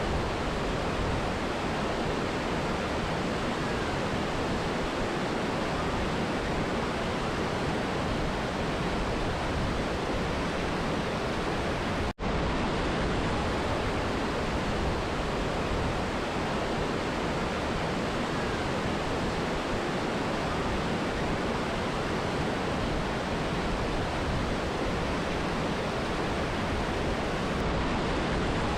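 Steady rush of a mountain river and waterfall, one even wash of falling and flowing water. The sound cuts out for an instant about twelve seconds in, then resumes unchanged.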